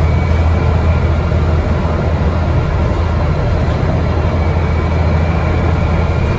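Scania N94UD double-decker bus's diesel engine, with ZF automatic gearbox, running at a steady pitch as the bus holds its top speed: a deep, even drone.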